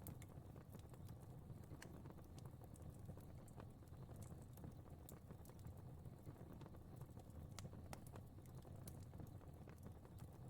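Fire crackling softly: scattered small pops and snaps at irregular intervals over a low, steady rumble.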